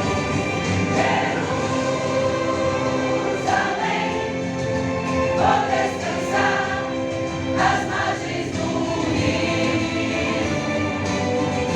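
A choir singing a hymn together, many voices on long held notes.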